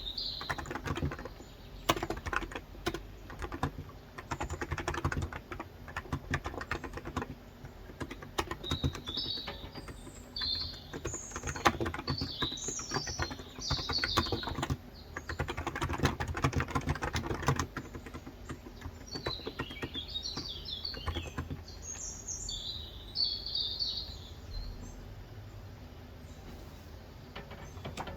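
Typing on a Cox Endeavor electrostatic capacitive tenkeyless keyboard with 35 g switches: a steady run of quick key clacks that thins out near the end. Small birds chirp in short bursts in the background.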